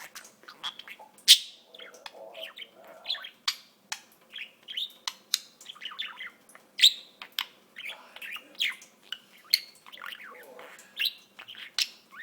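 Pet budgerigar chattering and warbling: a quick, irregular run of chirps, clicks and short squawks, the loudest click about a second and a half in.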